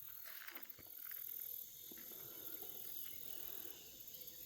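Faint, steady high-pitched insect chirring with a few soft clicks.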